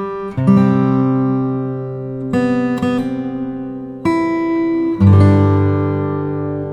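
Background music: acoustic guitar strumming slow chords, a new chord struck about every second or two and left to ring.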